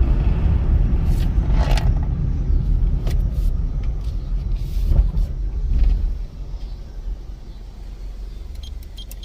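Honda Civic's 1.7-litre four-cylinder running while the car drives, a steady low engine and road rumble that drops to a quieter low hum about six seconds in, as the car slows. A few light clicks near the end.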